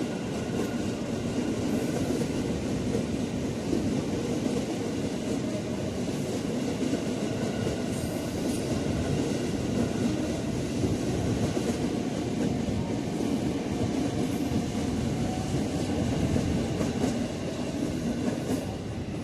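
KRL Commuter Line electric commuter train running past, a steady rumble of wheels on rail with many small clacks over the track.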